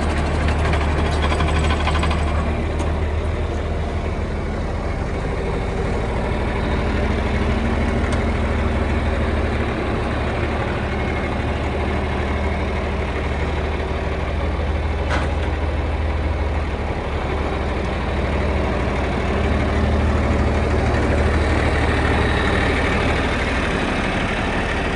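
John Deere 4320 tractor's rebuilt six-cylinder turbo diesel running steadily at idle, with slight swells in level.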